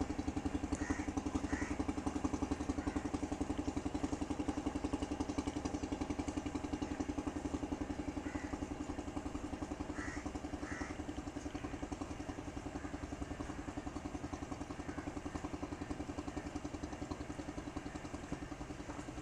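Diesel locomotive engine running with a fast, even throb and a steady hum, slowly fading.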